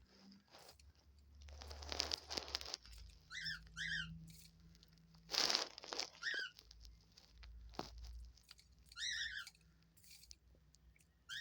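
Pet bird foraging among paper and toys: bursts of crinkling and rustling, with short high chirps from a pet bird, a pair about three seconds in, one more a few seconds later and a quick run of them near the end.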